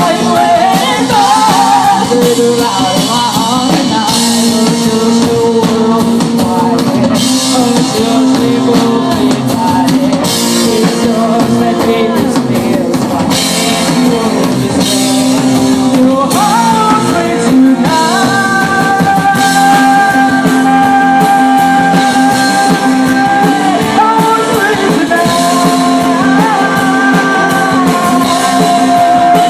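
Rock band playing an instrumental stretch on drum kit, electric guitar and bass. Long held melody notes come in from just past the middle.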